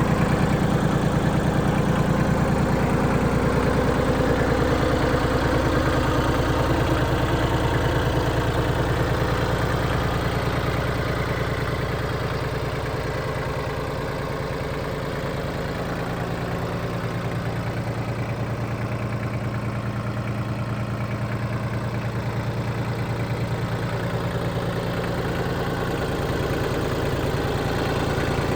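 Mitsubishi MT200 compact tractor's three-cylinder diesel engine running steadily, a little quieter for a while in the middle.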